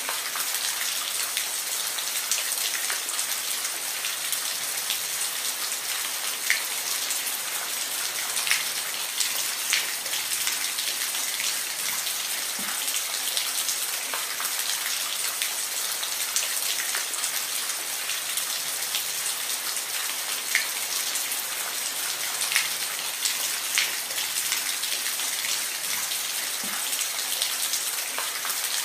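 Steady rain falling, a dense even hiss with individual drops ticking sharply close by every few seconds.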